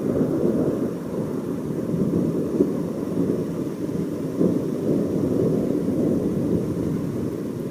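Thunder rumbling continuously, a long, low roll that rises and falls in strength without a sharp crack.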